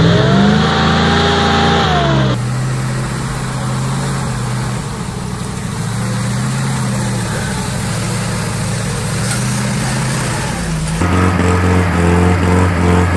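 Off-road truck engine revving hard, its pitch climbing and holding for about two seconds, then cutting abruptly to a lower, rougher engine note under load. A second abrupt change comes about eleven seconds in.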